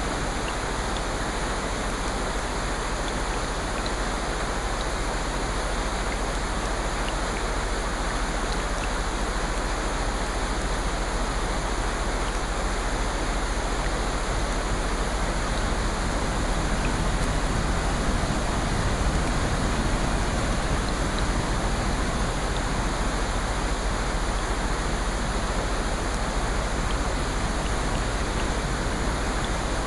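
Steady rushing water noise, even and unbroken, swelling slightly a little past the middle.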